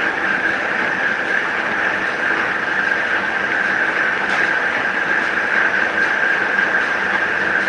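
Electric paper guillotine cutter running steadily, its motor giving a constant high whine over a steady mechanical hum.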